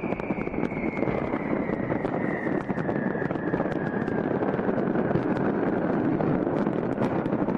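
A dense fireworks barrage heard from afar: a continuous rumble thick with crackling pops, and a long whistle slowly falling in pitch over the first few seconds.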